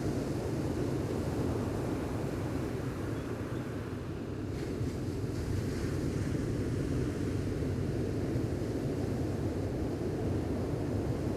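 Gentle ocean waves washing on a beach: a steady low rumble with a fainter hiss above it.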